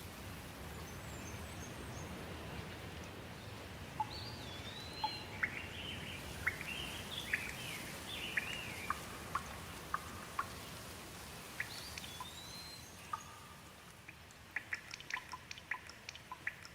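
Steady rain with birds chirping over it in short gliding calls. Near the end the rain thins and single drips tick separately.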